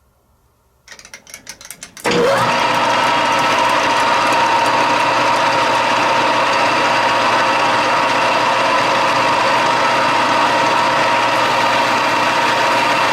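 A machine tool starts up: a second of rapid clicking, then its motor comes up to speed almost at once and runs steadily with a strong whine, ready to take a cut of about a thousandth of an inch.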